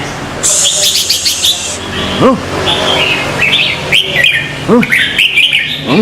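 Birds chirping repeatedly, with a burst of high twittering about half a second in and short low calls that rise and fall, a few times.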